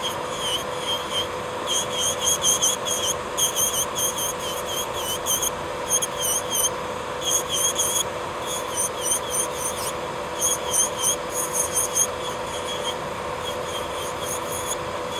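Electric nail drill (e-file) running at a steady pitch, with clusters of short high squeaks as the bit files down a thick layer of gel on a fingernail.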